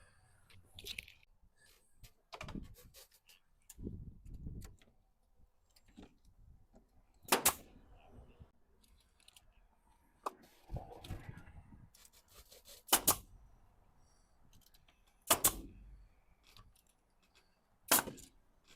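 Carpentry on 2x4 wood framing: four loud, sharp strikes a few seconds apart, with lighter knocks and clinks of handling in between.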